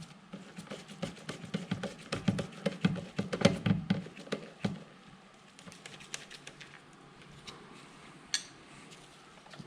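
Rubber hose being handled and worked into place among engine-bay parts: a dense run of small clicks, taps and rustles for about five seconds, then quieter with a few scattered ticks and one sharper click near the end.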